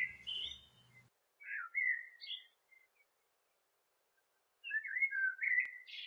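Small songbird singing in three short bursts of quick, slurred chirps.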